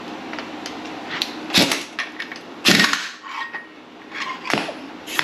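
Metal tools and engine parts clanking and knocking as they are handled: three main sharp knocks, the loudest about a third of the way in, plus a few lighter clicks.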